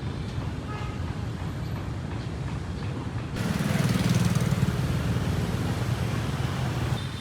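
Steady low outdoor rumble of background noise; about three and a half seconds in the sound changes abruptly and a louder hiss joins it.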